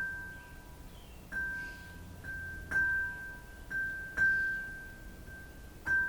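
Struck metal chime tones from a sound healing session: one high note struck about six times at uneven intervals, each ringing out and fading within a second or two, some with a fainter lower note sounding with it.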